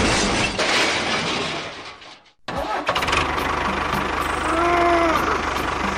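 A loud burst of noise fades out to a brief silence about two seconds in. Then a tractor engine starts and runs steadily with a fine, even low beat, with a short rising-and-falling tone sounding over it near the end.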